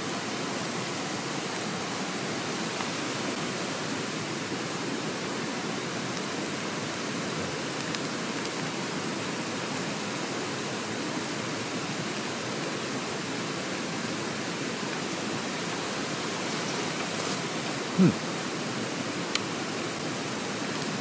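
A mountain stream running, a steady rushing of water. Near the end there is one brief, short, low knock.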